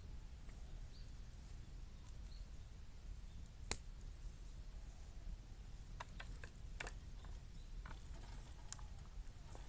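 Bamboo burning in a bottomless 18-litre can, giving faint sharp crackles over a low steady rumble: a single snap nearly four seconds in, a cluster of clicks around six to seven seconds, and another near the end.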